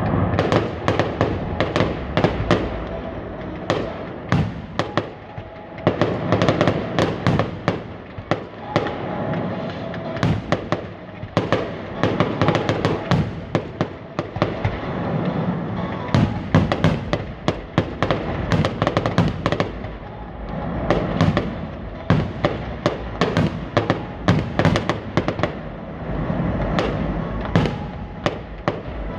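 Fireworks going off in quick succession: a dense, continuous run of bangs and crackles over a low rumble, with clusters of sharp reports coming several times a second.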